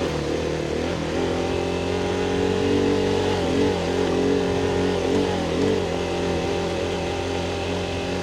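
Adventure motorcycle engine running while riding, its pitch wavering slightly with small throttle changes in the middle.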